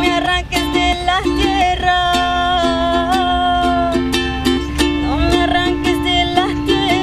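Ukulele strummed in a steady rhythm under a singing voice that holds long notes, sliding up into each one.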